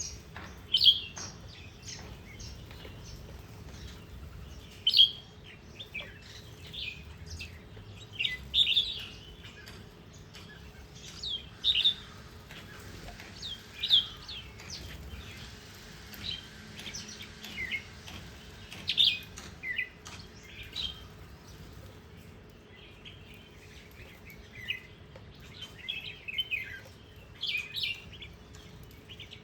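Small songbirds chirping: short, sharp high calls every second or two, some sliding down in pitch.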